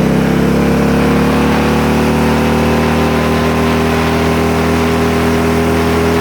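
Engine of an off-road Murray build running steadily, its pitch creeping up slightly over the first few seconds, then holding.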